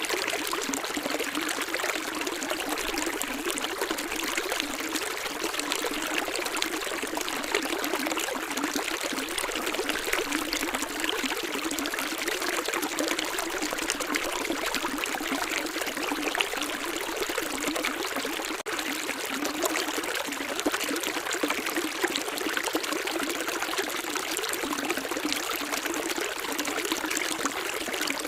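Water flowing steadily in a stream, an even splashing and trickling rush without birdsong or other sounds. There is one momentary dropout about two-thirds through.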